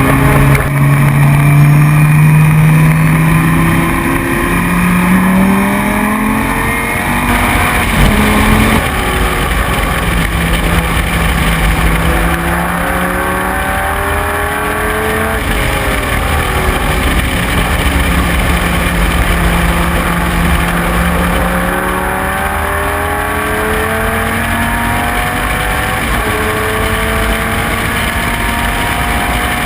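Dodge Viper GT3's V10 engine running hard under racing, its pitch climbing and dropping back several times as it accelerates through the gears, with steadier stretches in between.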